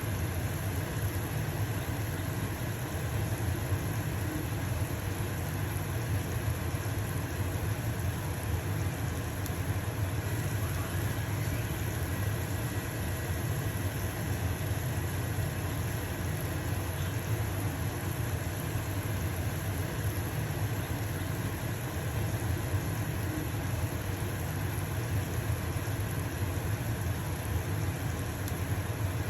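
Stove-top range hood fan running steadily with a low hum, mixed with the faint sizzle of a pancake frying in a pan.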